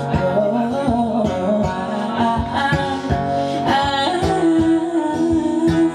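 Live acoustic band music: a singer holding and ornamenting notes between lines over strummed guitar and a steady beat, with one long held note from about four seconds in.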